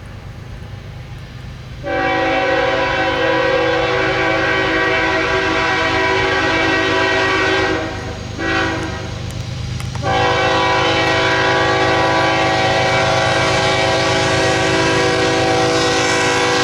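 Locomotive air horn sounding a chord: a long blast, a short one, then another long blast, the closing pattern of a grade-crossing signal. Under it is a steady low rumble of the passing train.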